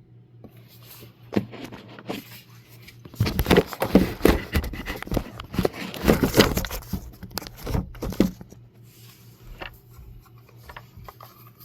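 Handling noise as the recording camera is moved and re-aimed: scraping, rustling and clicks, thickest in the middle few seconds, then tapering off into a few scattered knocks.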